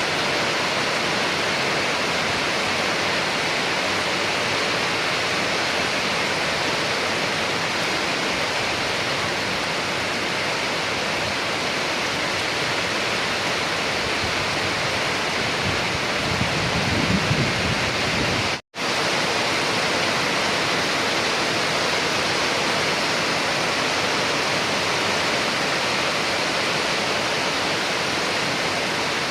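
Steady heavy rain, an even hiss of falling water. A brief low rumble swells a little past halfway, and just after it the sound cuts out for an instant.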